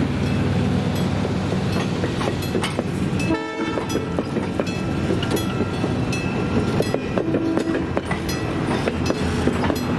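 A train running by, its wheels clicking and clattering over the rail joints, with a low engine rumble that eases off in the first few seconds. A short horn blast sounds about three and a half seconds in.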